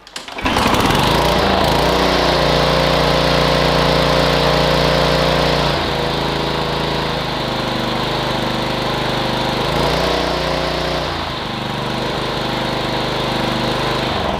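Briggs & Stratton DOV overhead-valve engine on a Klippo Pro 19 lawnmower, pull-started and catching at once, then running steadily. Its pitch and level shift slightly a couple of times.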